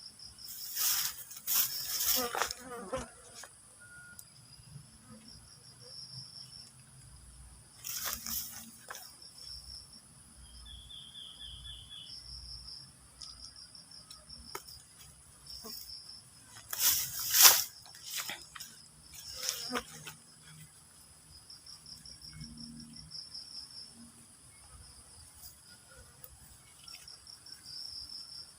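Insects chirping in quick pulsed trills over a steady high-pitched insect drone. Several loud, sudden noises break in near the start, about a third of the way through, and twice around two-thirds of the way through.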